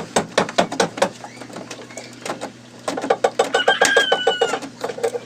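Rapid rhythmic knocking, about seven sharp knocks a second, fading for a moment midway and then picking up again. A brief high squeak slides slightly down in pitch near the end.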